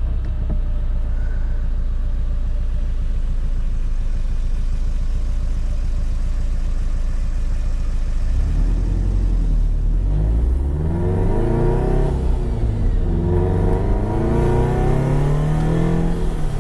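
Flat-four boxer engine with an aftermarket exhaust, heard from inside the car's cabin. It hums steadily while cruising, then from about halfway through it revs up through the gears, its pitch climbing and dropping back at each shift.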